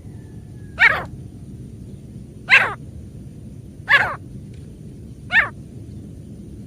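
Female grey francolin calling: four short calls about a second and a half apart, each sliding down in pitch.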